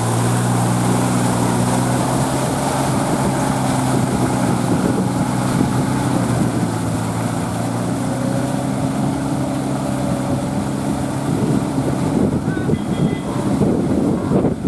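Kubota L3408 tractor's diesel engine running steadily while puddling with a rotavator. After about eleven seconds the even engine note gives way to a rougher, more irregular noise.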